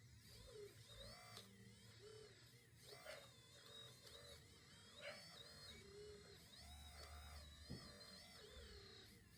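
Faint whine of a small electric motor in an RC model, repeatedly speeding up and slowing down in short swells, with a few light clicks.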